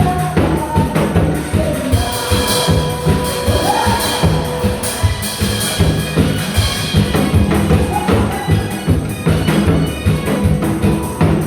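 Korean janggu (hourglass drum) played in a rapid, steady rhythm over recorded music.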